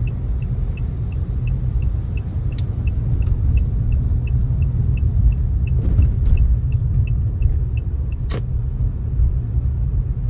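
Car driving, a steady low road rumble with a light regular ticking about three times a second. Scattered sharp clicks are heard, one louder about eight seconds in.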